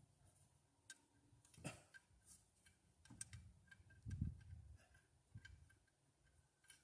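Faint, irregular small clicks and taps of bolts and tools being handled, with a dull low thump about four seconds in.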